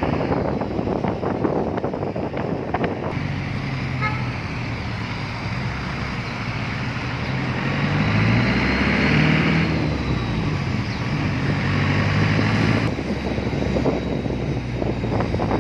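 Road traffic: a vehicle's engine running as it drives, with tyre and traffic noise; the engine note rises and falls about halfway through.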